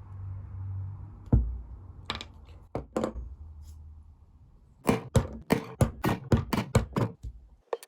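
Workbench handling sounds: a few separate knocks, then a quick run of about a dozen sharp taps, roughly five a second, lasting a little over two seconds.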